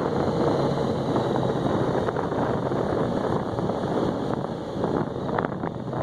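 Motorcycle under way, a steady rush of wind buffeting the microphone over the running engine.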